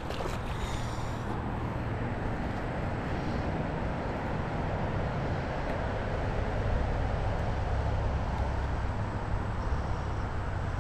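Steady rushing of flowing creek water, an even hiss with a low rumble underneath.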